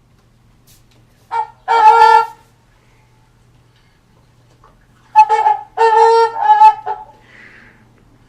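Trumpeter swan flight calls, loud horn-like honks: a short one and a long one, then after a pause a quick run of about four more.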